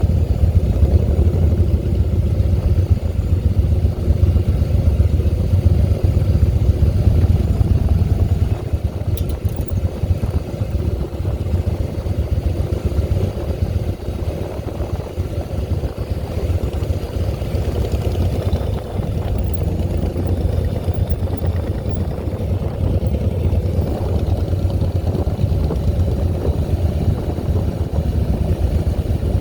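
Harley-Davidson Softail Deluxe's air-cooled V-twin engine running with a steady low rumble, easing off a little about eight seconds in and building back up later.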